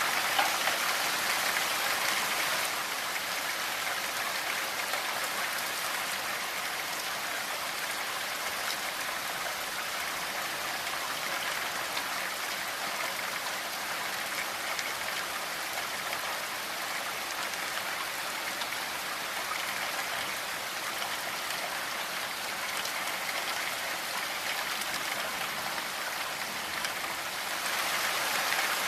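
Steady rainfall, an even patter of drops. It is a little heavier for the first couple of seconds and picks up again near the end.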